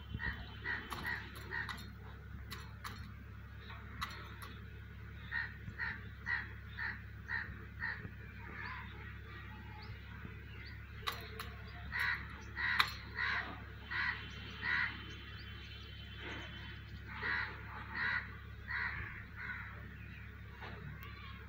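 A bird calling in four runs of short, repeated calls, about three a second, with a few faint clicks between them.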